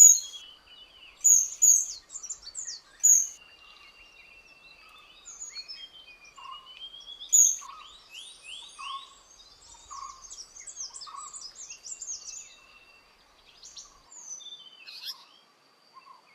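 Several wild birds calling. Short, sharp, very high-pitched calls stand out a few times in the first seconds and once more near the middle, over a mix of quick rising chirps and a soft lower note repeating about once a second. A thin steady high tone runs underneath.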